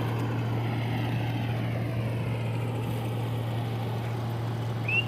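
Diesel engine of a farm harvesting machine running steadily with a low, even hum. Near the end comes a short high two-note chirp.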